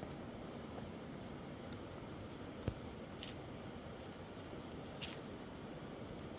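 Steady background hiss with scattered small clicks, and one sharp tap a little under three seconds in.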